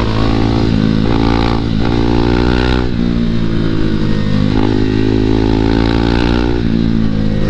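A KTM 390's single-cylinder engine running hard from the rider's seat through a series of bends. The revs rise and fall, with a few abrupt pitch changes from throttle and gear changes.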